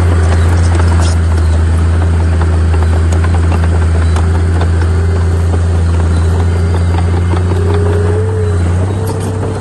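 Heavy earthmoving machine's diesel engine running steadily under load, a deep drone with a faint whine that rises slightly near the end, over a light clatter; the level drops a little about nine seconds in.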